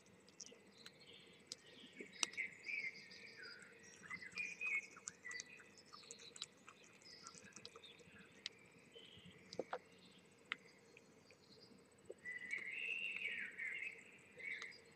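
Faint birdsong: short warbling, chirping phrases, in a busy run a couple of seconds in and again in a louder run near the end, with scattered small clicks between.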